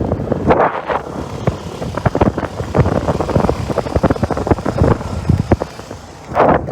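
Riding noise on a small motorcycle: a constant rumble with many irregular wind buffets and thumps on the microphone, one stronger gust near the end.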